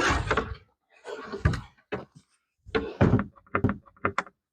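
A series of short knocks and thumps, about five in all, broken by sudden dead silences. Several quick sharp knocks come close together near the end.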